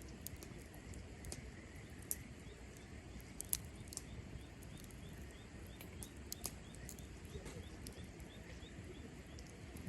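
Cherry-wood campfire crackling: irregular sharp pops and snaps over a low, steady rumble of the burning fire.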